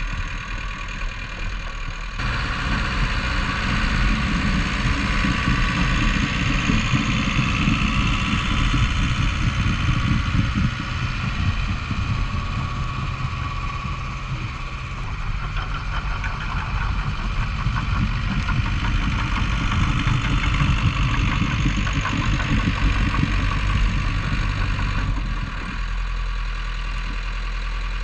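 Bulldozer's diesel engine running steadily while clearing snow. It works harder from about two seconds in and eases back near the end.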